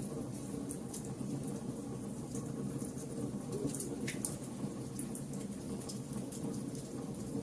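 Fire burning: a steady low roar with scattered sharp crackles and pops at irregular intervals.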